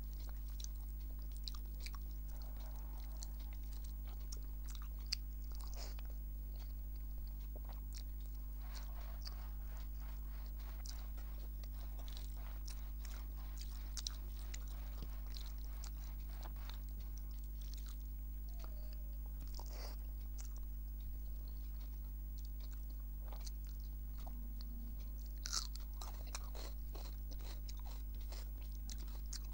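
Close-up sounds of a person chewing a mouthful of rice with dalma and fried vegetables: soft, irregular wet mouth clicks and smacks, over a steady low hum.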